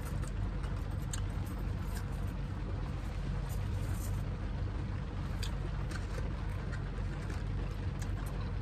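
A car running while parked, heard from inside the cabin as a steady low hum, with a few faint scattered ticks.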